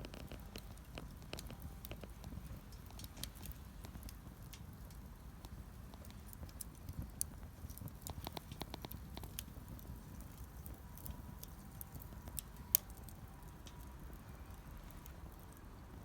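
Wood fire crackling in a Solo Stove Campfire, a stainless double-wall fire pit built for secondary combustion: scattered small pops and snaps, with one sharper pop about three-quarters of the way through, over a low steady background.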